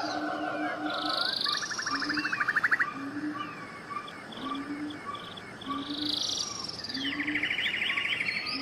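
Several birds singing together: chirps, whistled phrases and rapid buzzy trills, one about two seconds in and another near the end. A short low note repeats about once a second underneath.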